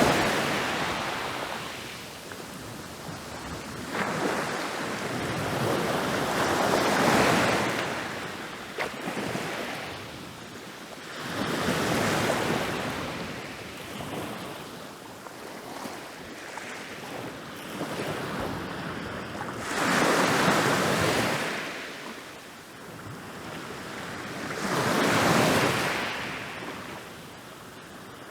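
Ocean waves rolling in and breaking on a beach. Each surge swells up and washes back out, every five to eight seconds.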